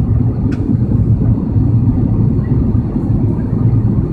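Steady low drone inside the cabin of an Airbus A330-300 airliner in descent: engine and airflow noise, unchanging, with one faint tick about half a second in.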